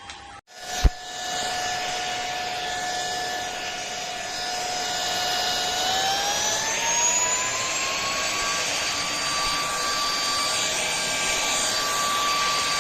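Airbot Hypersonics PRO cordless handheld vacuum cleaner running with a high motor whine. It starts just after a click, then about halfway through the pitch rises as the motor speeds up and holds there, before cutting off suddenly.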